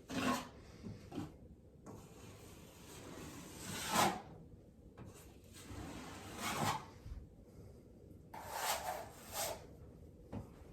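An 8-inch drywall taping knife scraping joint compound across drywall in several strokes, one drawn out over about two seconds and the others shorter, while the second coat of mud is spread over the taped seams.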